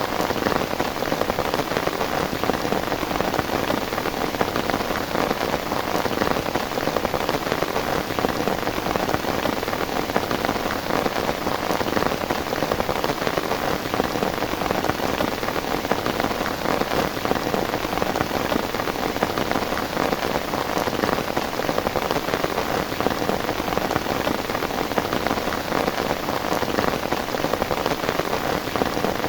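Heavy rain falling steadily, a dense, unbroken patter of drops striking a surface.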